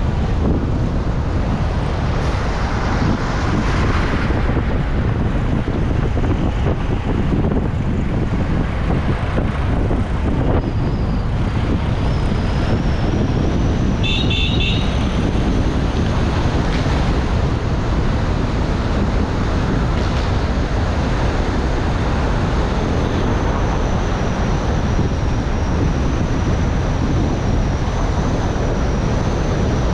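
Steady road and wind noise from a car driving along a winding mountain road. About halfway through comes a short car-horn toot.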